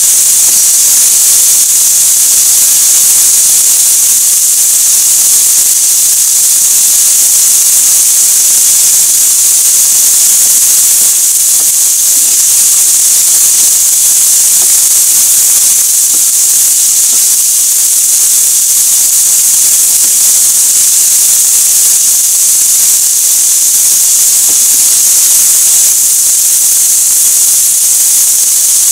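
Chicken pieces and eggplant slices sizzling in oil in a frying pan, a steady high hiss.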